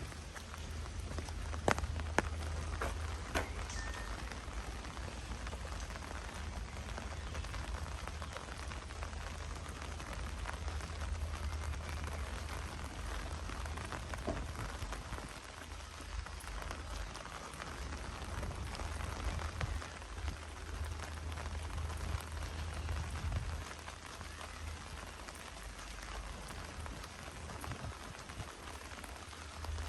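Steady rain falling and pattering on hard surfaces, with a few sharp drip-like taps in the first few seconds, over a low steady rumble.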